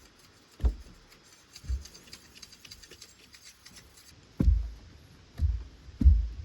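Wood being struck in a series of dull thuds, about five blows at uneven intervals, the last ones the loudest.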